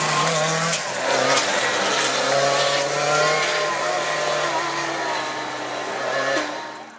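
Lancia Delta S4 Group B rally car's twin-charged four-cylinder engine revving hard, its pitch repeatedly climbing and dropping with gear changes and lifts, with a few sharp cracks; the sound falls away near the end.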